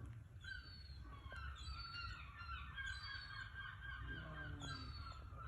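A group of birds calling over one another with many short, overlapping chirps and squawks, and a lower, harsher call about four seconds in, over a steady low rumble.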